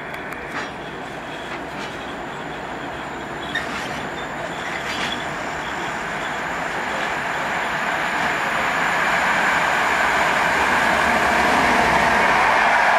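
EU160 Griffin electric locomotive and its express passenger coaches approaching at speed: a rushing rumble of wheels on rail that grows steadily louder as the train nears and passes close by.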